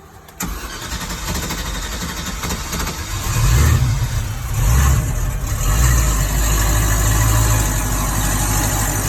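2006 MasterCraft X15's MCX inboard V8 being started. The starter cranks for about two and a half seconds before the engine catches, revs up a few times, then settles into a steady idle. The engine has an intermittent hard-start problem that the owner traces to fuel pressure bleeding off through a leaking line between the regulator and the pump.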